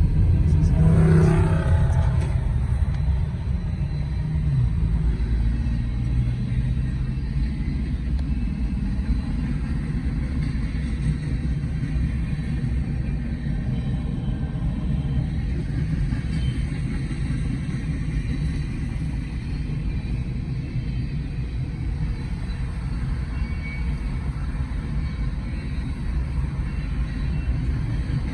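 Union Pacific freight train of covered grain hopper cars rolling past, a steady low rumble.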